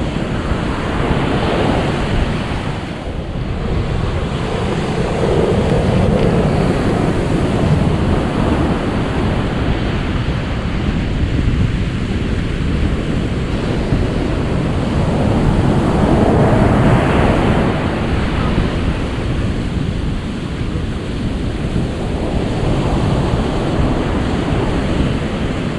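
Ocean surf: a steady rush of waves that swells and eases every several seconds.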